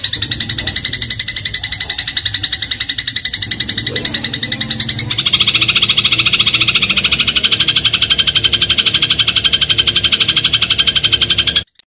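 Eurasian tree sparrow giving a fast, even rattling chatter of rapidly repeated notes, the 'crot' call used as a masteran for training shrikes. It shifts to a slightly different pitch about five seconds in and cuts out briefly just before the end.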